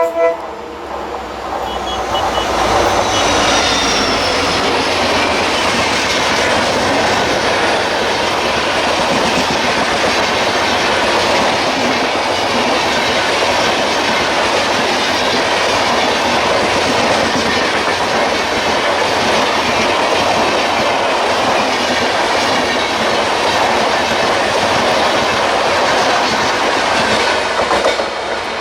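A diesel-hauled express train of LHB coaches passing close by at speed: a steady, loud rush of wheels and air with clickety-clack over the rail joints. A horn note cuts off just at the start, and the noise drops near the end as the last coach goes by.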